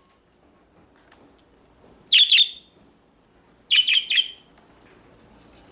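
Pet budgerigar chirping: two short bursts of rapid high chirps, one about two seconds in and another about four seconds in.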